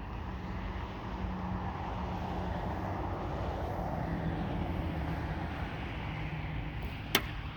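A vehicle going by on a nearby road: a steady rush of tyres with a low engine hum, swelling and fading. Near the end a thrown rock strikes thin ice once with a sharp, ringing crack.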